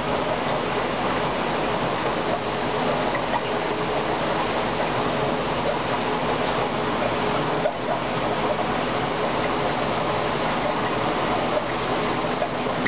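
Aquarium water circulating with a steady rush and gurgle, with a faint hum underneath.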